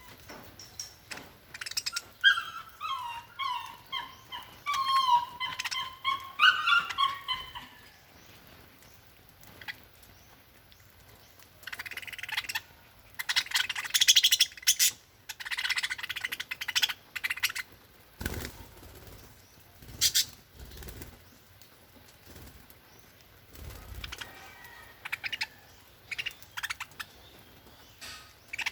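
Budgerigars chirping, with a rapid warbling run of short notes lasting about five seconds near the start, then several rustling bursts of wings flapping about halfway through and again near the end, amid scattered small clicks.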